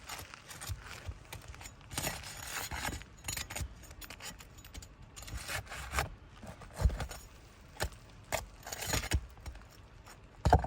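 Steel flat bar prying up a laminated asphalt shingle and working its nails loose: irregular gritty scraping with sharp metal clicks and knocks, the sharpest near the end.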